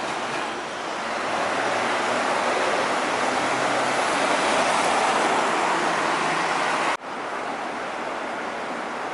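Road traffic on a highway: tyre and engine noise swells as a vehicle passes, then cuts off abruptly about seven seconds in to a steadier, quieter traffic rush.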